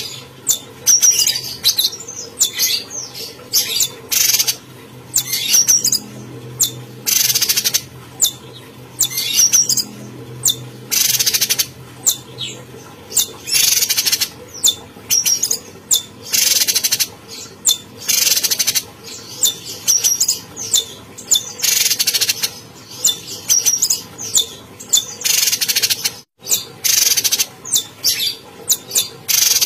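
Cucak cungkok songbird calling vigorously and almost without pause, a rapid run of short, loud, high calls one after another.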